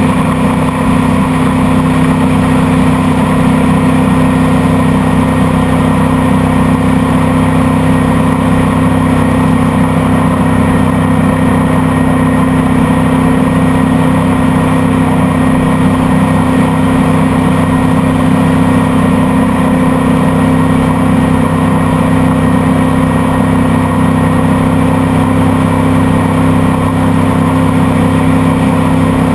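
Motorboat engine running loud and steady at a constant speed while underway.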